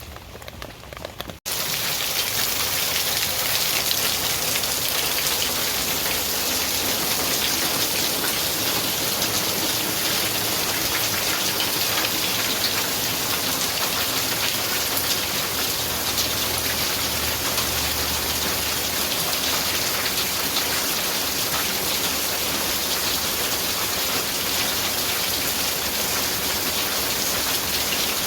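Heavy rain falling steadily, a dense even hiss of drops. It starts abruptly about a second and a half in.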